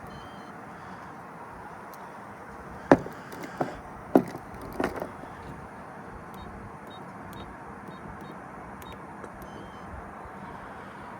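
Steady vehicle noise, broken about three seconds in by four sharp clunks, each roughly two-thirds of a second apart.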